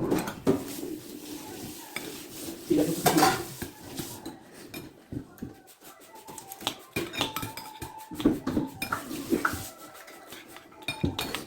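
Metal utensils clinking and scraping against dishes, in irregular knocks with a few short ringing clinks.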